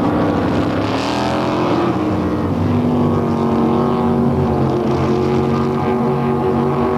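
Several motorboat engines running at once, their pitches shifting up and down as they race.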